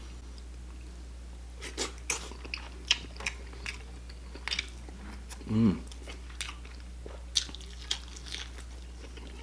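Close-miked eating: wet chewing and lip smacking, irregular clicks as the man eats crab meat and rice by hand and gnaws on a spare rib. A brief hum from the eater comes about halfway through.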